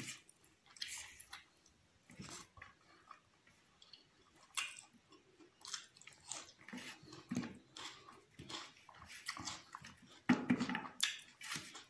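Close-miked chewing and wet mouth smacks of a man eating rice and chicken curry by hand: irregular short clicks and smacks, louder about ten seconds in.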